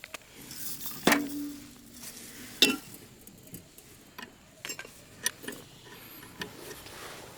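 Metal parts and tools being handled: a few sharp metallic clinks and knocks, the loudest about a second in with a brief ring, followed by lighter taps and ticks.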